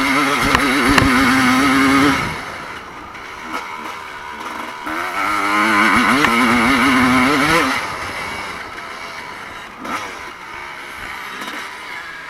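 Evo-class motocross bikes racing past, their engines revving up and down in quick surges. One bike passes loudly and fades about two seconds in, a second passes from about five to eight seconds, and more distant engines carry on quietly in between.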